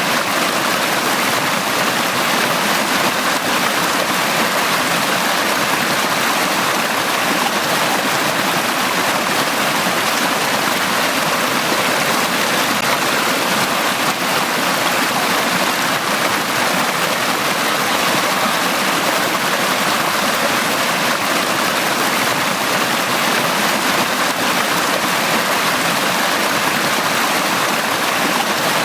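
A forest stream running steadily, water rushing and splashing over rocks.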